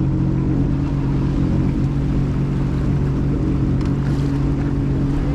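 Jet ski engine running steadily at idle, with a steady low hum, under wind and water noise.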